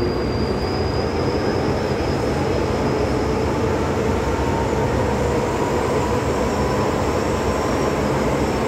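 MTR M-Train electric metro train running steadily between stations, a continuous rumble with a faint high whine that slowly rises in pitch.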